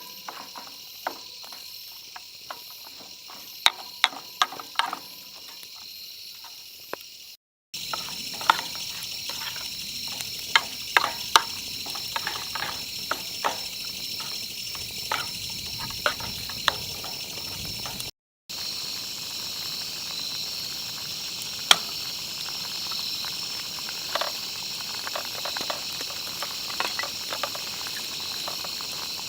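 Food cooking in a pan over a campfire: a steady sizzling hiss with frequent sharp pops and crackles. The sound drops out completely for a moment twice.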